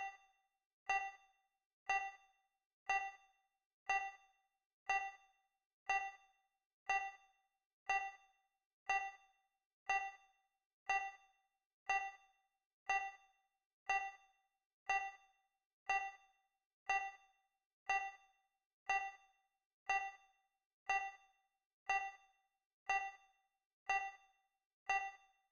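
Digital countdown timer's tick sound effect, one short ding-like beep every second, evenly spaced and all alike, with silence between ticks.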